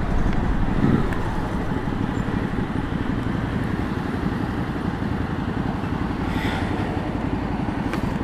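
Ducati L-twin motorcycle engine running at low revs in first gear as the bike rolls slowly and comes nearly to a stop, a steady low rumble.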